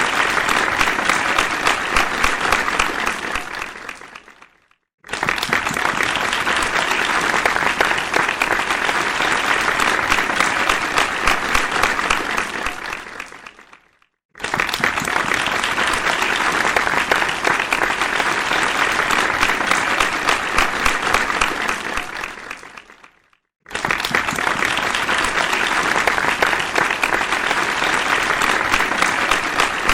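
Applause: many people clapping densely and steadily. It comes in stretches of about nine seconds, each fading out over a second or so into a brief silence, then starting again abruptly at full strength, three times in all.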